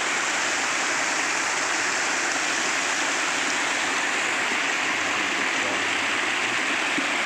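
Steady rush of flowing water from the Markandi river and its small waterfall, an even hiss-like noise with no change in level.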